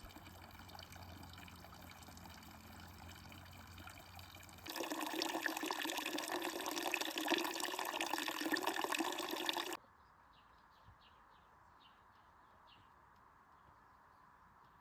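Running water. It is loud and rushing for about five seconds in the middle, cut in abruptly between quieter stretches of steady background noise. After it cuts off, faint chirps repeat a few times a second.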